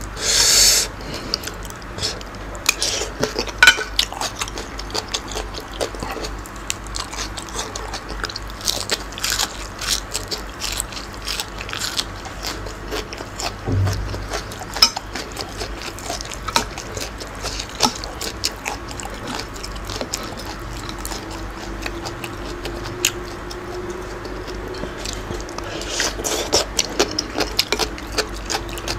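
Close-miked mukbang eating: a person chewing green papaya salad with squid and raw leafy greens, with many quick wet mouth clicks, smacks and crunches. A loud burst of crunching comes just under a second in.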